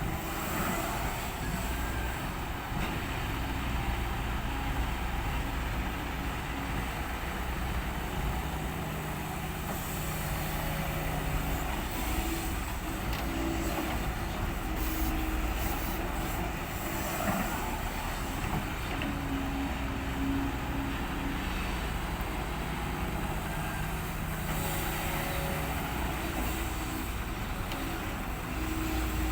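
Diesel engines of an excavator and ten-wheel dump trucks running steadily while dirt is being loaded, a constant low rumble with engine tones rising and falling as the excavator works.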